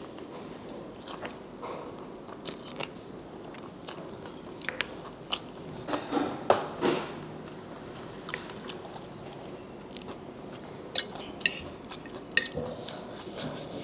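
A person biting and chewing sauce-coated fried chicken close to a clip-on microphone, with irregular short crunches and clicks throughout.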